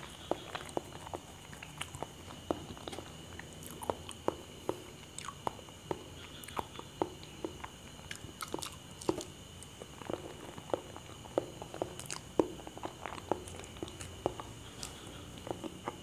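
A person chewing and eating bananas: a steady string of short mouth clicks and smacks, about two a second.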